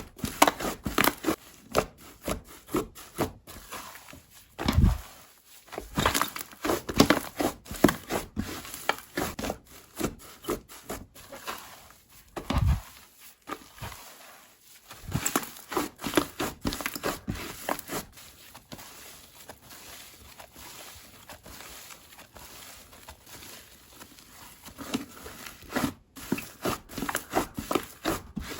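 Slime being squeezed, folded and stretched by hand: a quick run of sticky clicks, crackles and small pops, with a duller thud twice.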